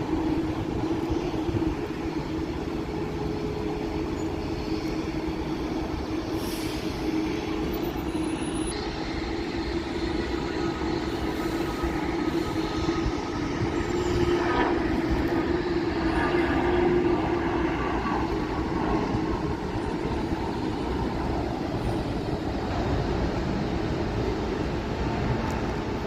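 Jet aircraft engines running: a steady rumble with a low, steady hum under it, swelling a little past the middle.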